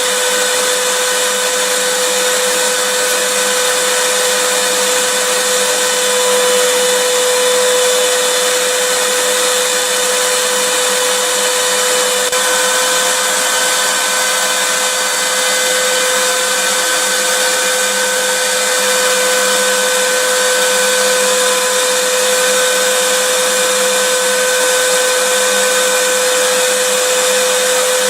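Vacuum cleaner running steadily: an even, unchanging rush of air noise with a steady whine from the motor.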